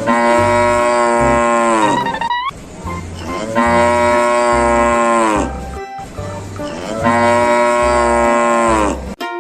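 Cow mooing three times, each moo about two seconds long and dropping in pitch as it ends, over background music with a steady beat.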